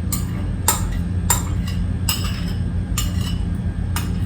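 Utensils clinking against a bowl as jjajangmyeon noodles are tossed and mixed into black bean sauce: a string of sharp, ringing clinks roughly every half second over a steady low hum.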